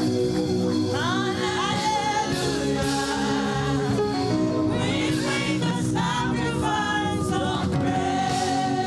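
Gospel choir singing praise with a live band accompanying, the voices over a steady beat.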